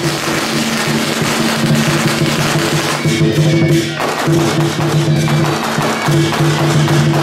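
Loud procession percussion music: drums and clashing cymbals and gongs under a steady low wind tone played in repeated phrases, which drops out for about a second, roughly three seconds in.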